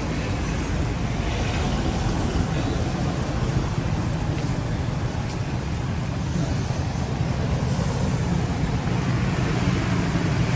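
Continuous low rumble and hiss of outdoor background noise, steady throughout.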